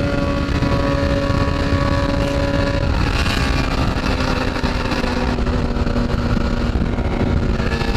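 Motorcycle engine running at a steady speed while being ridden, its even engine note over road noise, easing slightly in pitch near the end.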